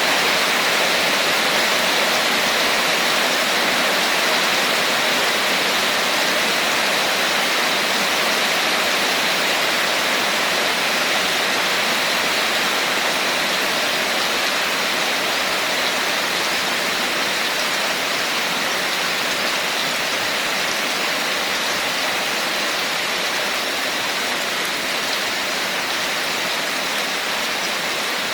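Steady heavy rain falling, an even hiss with no breaks, getting slightly quieter over the course.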